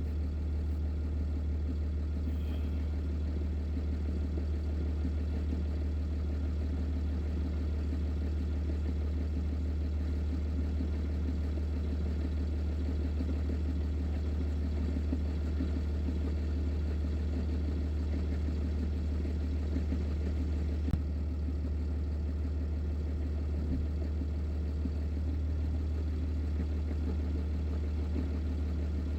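Semi truck's diesel engine idling steadily, a constant low hum, with a single short click about 21 seconds in.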